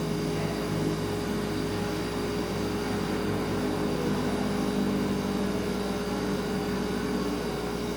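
Refrigerator running with a steady hum: one constant tone over a low drone, unbroken throughout.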